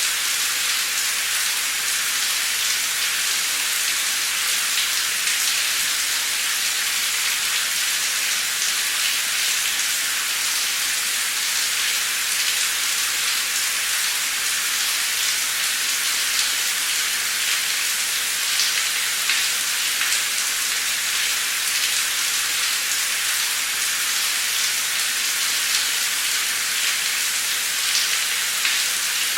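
Heavy torrential rain pouring steadily, a dense even hiss with scattered drop ticks.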